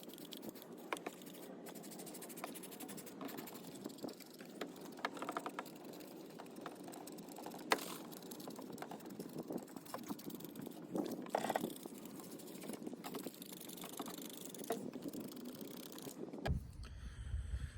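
Hand sprayer squirting a baking-soda and warm-water solution onto battery-acid corrosion to neutralise it, in irregular squirts with clicks and rattles. Near the end a low rumble comes in suddenly.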